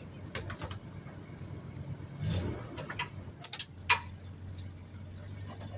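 Doodlebug skidder's truck engine idling steadily, with a few sharp metallic knocks over it, the loudest about four seconds in.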